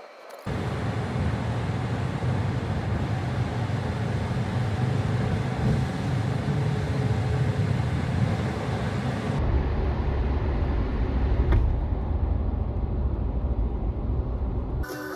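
Steady low rumble and running noise of a moving road vehicle. About nine seconds in the sound changes abruptly, the hiss thinning and the deep rumble growing heavier.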